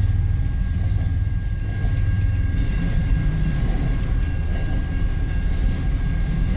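CN freight train rolling slowly past, a steady low rumble. The locomotive's heavy engine drone eases about two and a half seconds in, leaving the rumble of the empty car-hauler wagons going by.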